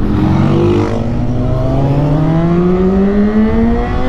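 Inline-four 600cc sport bike engine accelerating hard in one gear, its pitch rising steadily throughout, over wind rush.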